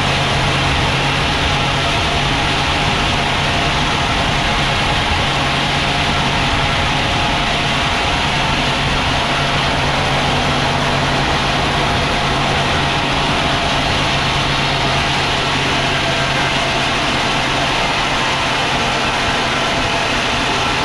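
Sawmill machinery running steadily, a constant low engine hum under a wash of mechanical noise with no breaks or changes.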